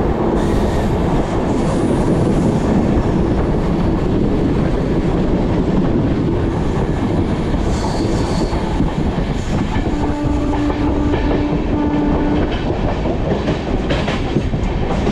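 Passenger express train running at speed, heard from on board: steady rumble of the coaches with wheels clattering over the rail joints. A steady tone sounds for about two and a half seconds about ten seconds in.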